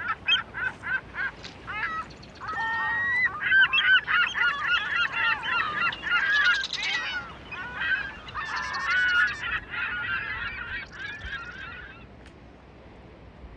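Many birds calling at once in a flock: short repeated calls at first, then a dense chorus of overlapping calls that fades out about twelve seconds in.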